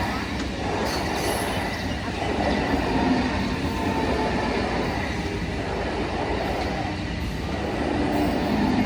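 Indian express train running past on the rails: a steady, continuous noise of wheels and carriages that holds at an even level.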